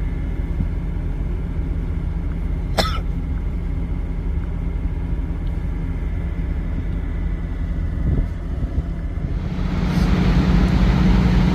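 Steady low engine and road rumble inside a semi-truck's cab, with a single short sharp sound about three seconds in. About ten seconds in the rumble grows louder and takes on a hiss.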